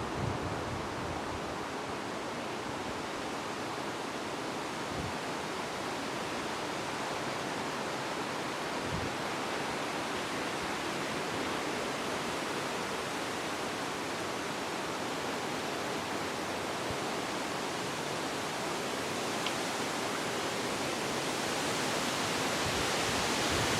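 Steady wind rushing through trees and foliage, a continuous hiss that swells a little near the end.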